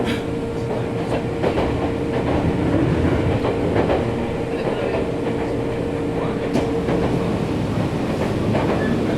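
Nankai 7100-series electric train heard from inside the car as it arrives at a station: a steady rumble with a held hum that cuts off about seven and a half seconds in, and scattered knocks and clicks from the wheels and car body.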